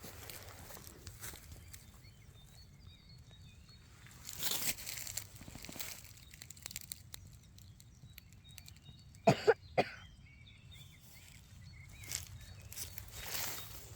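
Rustling steps through forest floor litter, with faint bird chirps and a quick group of three sharp sounds about nine seconds in.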